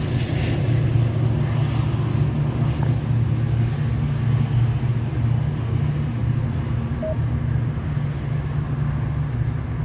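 Metra commuter train's diesel locomotive running with a steady low drone as the train departs, the higher sound slowly thinning out.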